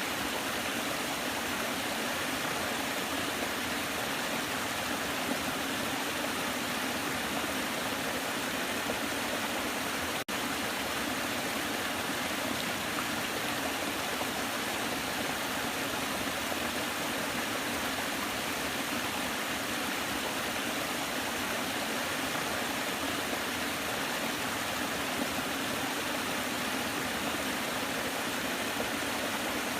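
Waterfall: a steady, even rush of falling water, with a momentary dropout about ten seconds in.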